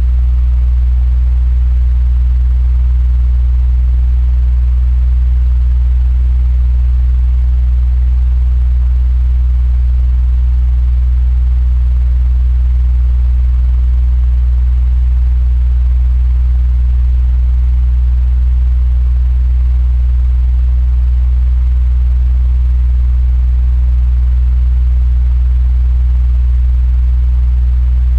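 Electric fan running steadily: a loud, constant low hum with a fainter airy hiss above it.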